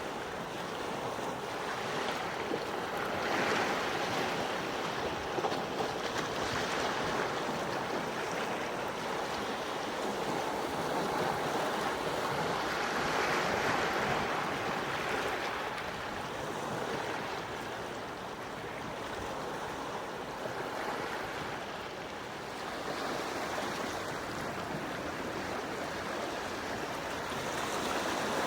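Gentle sea waves washing onto the shore, the wash swelling and easing every few seconds.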